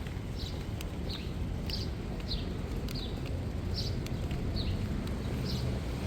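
A bird calling over and over, short falling chirps about one or two a second, over a steady low city rumble.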